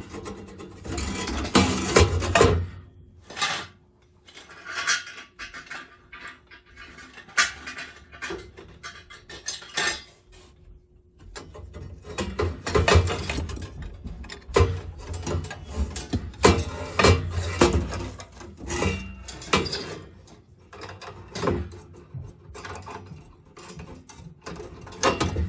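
Irregular metallic clinks, clatters and knocks of metal tools and parts being handled, with a brief lull about three seconds in and again around ten seconds.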